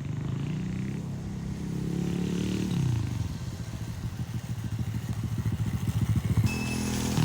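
Mini bike engine revving up over the first few seconds, then dropping back sharply to a low, pulsing chug, with a steadier tone near the end.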